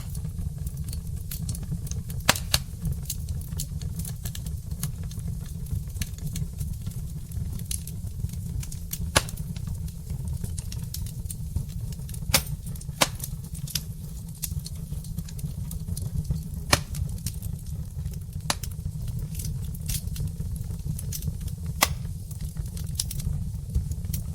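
Wood fire burning in a fireplace: irregular crackles and sharp pops from the burning logs over a steady low rumble.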